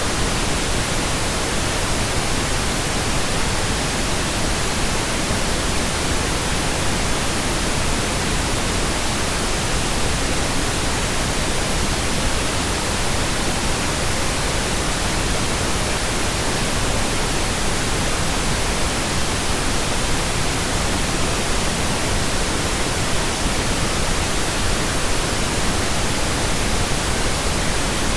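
Steady computer-generated pink noise: an even, unbroken hiss across the whole range, without any change.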